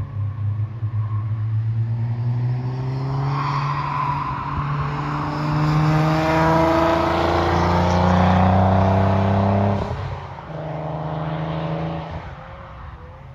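Nissan 300ZX Twin Turbo's 3.0 V6 (VG30DETT) accelerating past, its engine note climbing in pitch and loudest as the car passes close. About ten seconds in the revs drop sharply, and the sound fades as the car pulls away.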